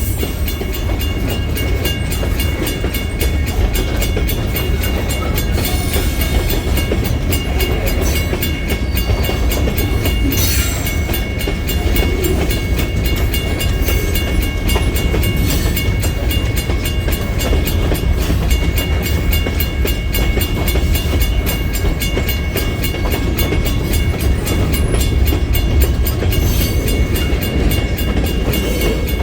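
Freight train rolling by, a steady low rumble of wheels and cars on the rails.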